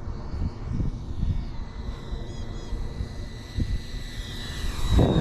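70mm electric ducted-fan RC jet (Freewing F-22 Raptor) whining in flight, a thin high tone whose pitch slides down near the end. Under it, an irregular low rumble swells to its loudest about five seconds in.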